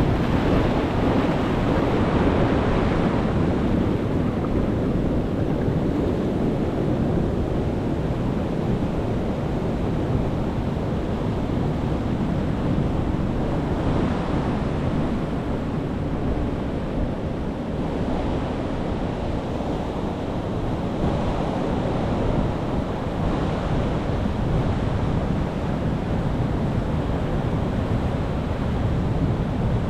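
Ocean surf breaking on the shore: a continuous rushing of waves that swells and eases every few seconds.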